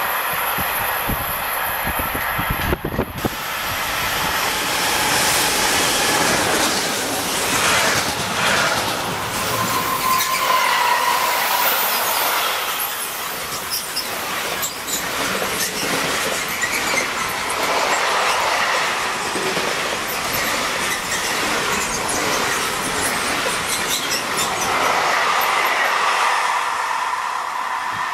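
Freight train wagons rolling past close on a curve, their wheels clicking over the rails and squealing against the curved track.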